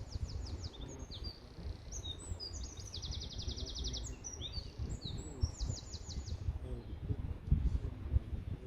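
A small songbird singing: three runs of fast, high trilled notes mixed with short chirps, over a steady low rumbling noise.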